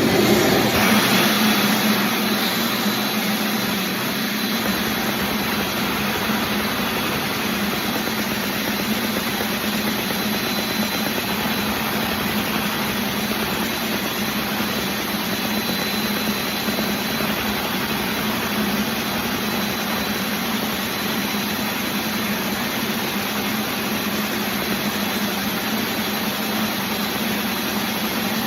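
Engine idling steadily at an even speed, with a constant hum.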